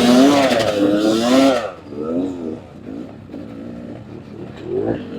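Dirt bike engine revving hard, its pitch rising and falling, for about the first second and a half. It then drops to quieter, uneven low revs with a few short blips.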